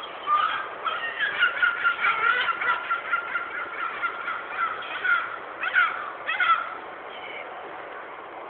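Young gull calling: a long, wavering, high-pitched call lasting about five seconds, then two short cries less than a second apart.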